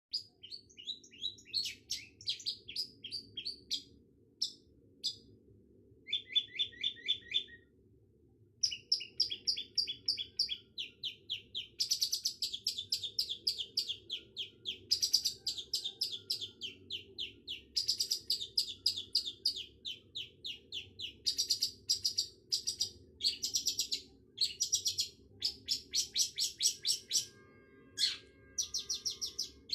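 Long-tailed shrike (cendet) singing in fast chattering phrases, each a quick run of short, sharp repeated notes, broken by brief pauses.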